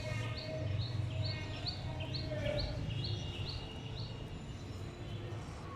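A bird chirping in a steady series, about two to three short high chirps a second, over a low steady hum.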